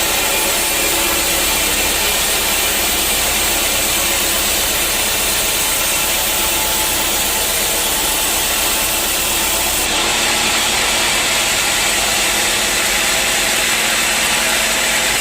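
A sawmill running steadily, with an engine and a saw going at once. The sound changes abruptly about ten seconds in.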